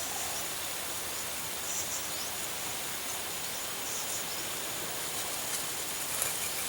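Steady outdoor ambience: an even hiss with a thin, continuous high-pitched insect-like drone, a few brief faint chirps about two and four seconds in, and a couple of small clicks near the end.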